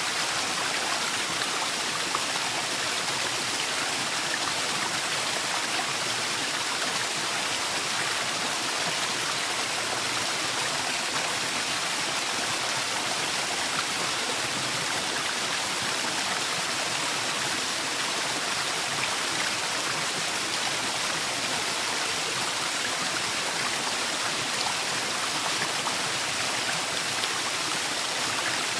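Waterfall in a forest: a steady, unbroken rush of falling water.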